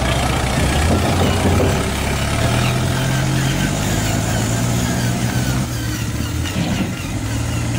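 An RC Fuso dump truck runs with a steady engine-like drone.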